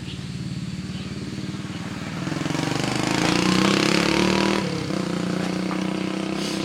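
Motorbike engine running, growing louder about two seconds in and dropping back just before five seconds.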